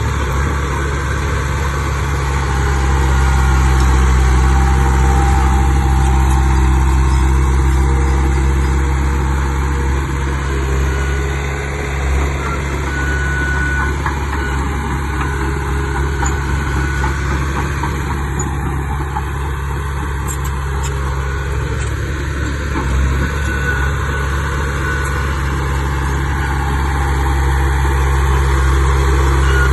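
Heavy earthmoving machine's diesel engine running steadily with a deep, even drone, the load swelling a little and easing off now and then.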